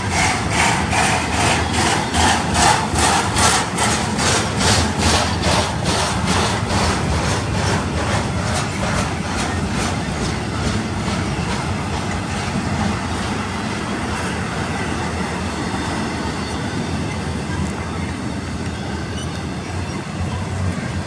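Intermodal freight train cars rolling past, trailers on flatcars and then double-stack container cars, their wheels clicking over rail joints at about two to three clicks a second. About halfway through the clicking fades into a steady rolling noise of wheels on rail.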